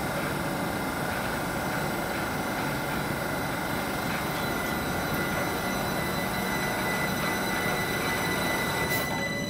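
Southern electric multiple-unit train moving slowly past along the platform: a steady rumble of wheels on rail with a few steady high whining tones. Near the end a new whine starts to rise in pitch as the train picks up speed.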